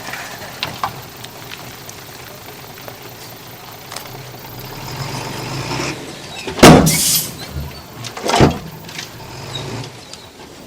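Diesel engine of heavy earth-moving machinery running steadily. Two loud, short, noisy blasts cut through it, about six and a half seconds in and again two seconds later.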